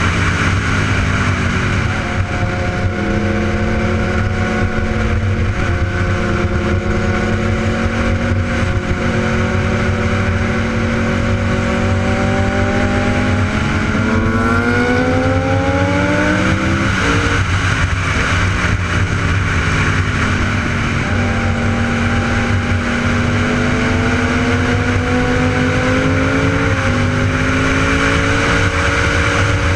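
Superbike engine running under way, its pitch climbing slowly, falling with a sharp drop about halfway through, then climbing again, over a steady rushing noise.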